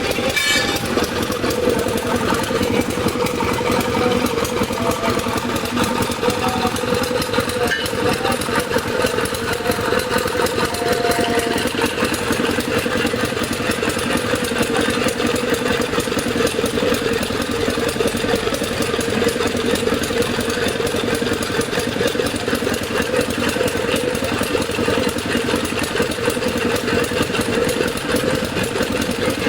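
An engine running steadily at a constant speed, with a fast even pulse.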